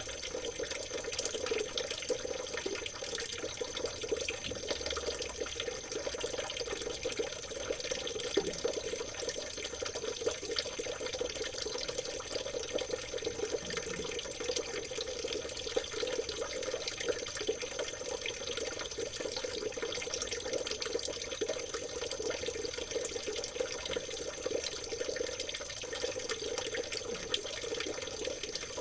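Small stream of water trickling and babbling steadily, full of tiny splashes and gurgles, with a thin steady high whine underneath.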